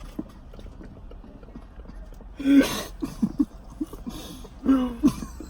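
Close-up chewing and lip-smacking of a person eating a fried chicken sandwich, a steady scatter of soft wet pops and clicks. Two brief louder voiced sounds come about halfway through and near the end.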